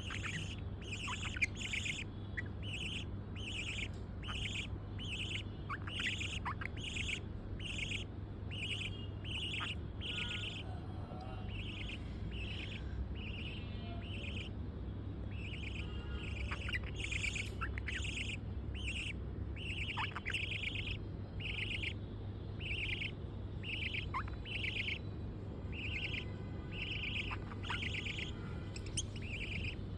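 Budgerigars calling: a steady run of repeated short calls, about two a second, with a few brief sweeping chirps mixed in, over a steady low hum.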